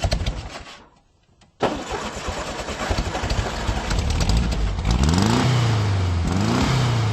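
Engine noise that cuts out about a second in, then an engine starting abruptly and running, revving up and back down twice in the second half.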